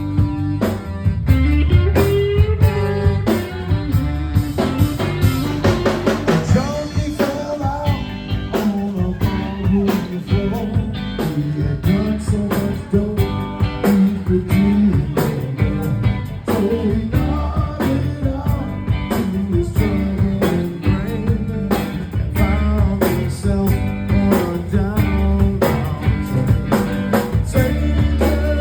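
A blues band playing: electric guitar over bass and a drum kit, with a steady beat.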